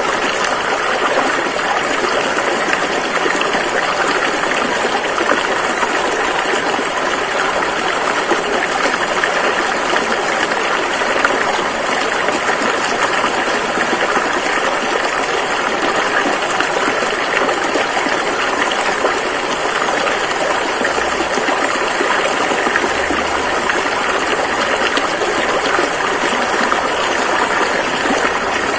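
A fast-flowing river rushing over rocks in a steady, even rush of water.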